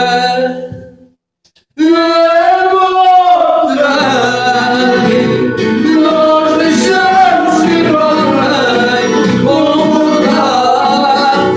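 A man singing a Portuguese song with long, held notes; the voice drops out to silence about a second in and comes back loud half a second later.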